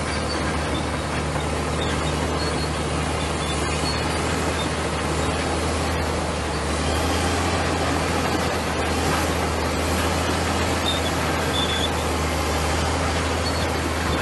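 Komatsu bulldozer's diesel engine running steadily, a constant low drone under a wash of mechanical noise.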